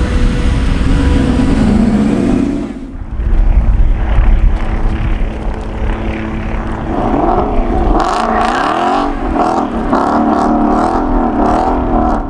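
Drag cars' engines running and accelerating on a half-mile drag strip, with the engine note rising and falling about halfway through.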